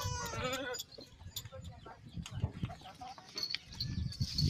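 A goat bleats once at the start, followed by fainter short farmyard animal calls and scattered knocks.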